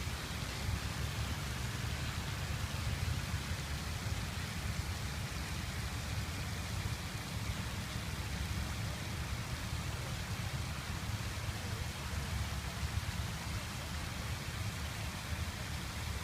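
Water fountain splashing steadily, a continuous hiss of falling water with a low rumble underneath.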